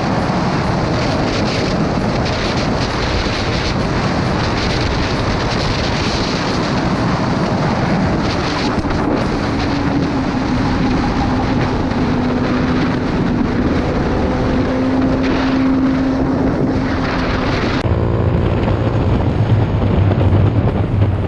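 Motorcycle on the move: steady wind rush on the microphone over the engine, whose tone slowly rises in pitch. The sound changes abruptly near the end.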